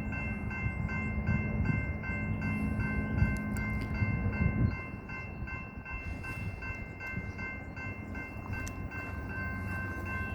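Railroad grade-crossing warning bell ringing steadily at about three strikes a second. A low rumble runs under it and fades out about halfway through.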